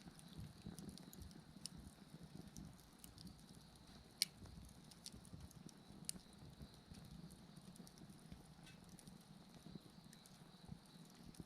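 Wood bonfire burning softly with scattered crackles and two sharper pops, about four and six seconds in, over a low flame rumble. A faint steady chirring of insects runs underneath.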